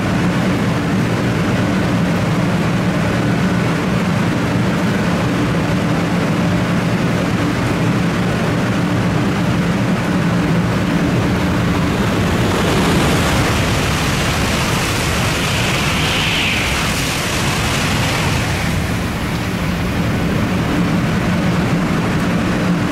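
A Shinkansen passing through the station at speed on rain-wet track. Under a steady loud rumble and hum, a hissing rush swells about halfway through and fades a few seconds later as the train goes by.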